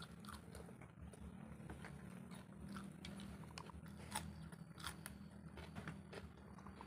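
Close-up eating sounds: a person chewing a mouthful, with crisp crunches about four and five seconds in as they bite into raw cucumber.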